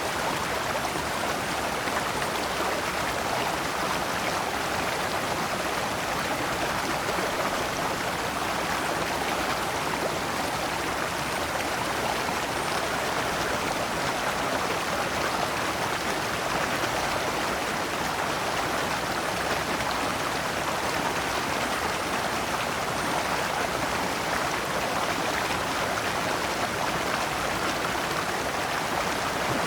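Shallow stream flowing over large stones in small cascades: a steady, even rush of water.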